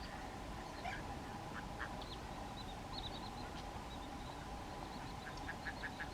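Birds calling: scattered short high chirps, then a quick run of clipped notes near the end, over a steady background hum.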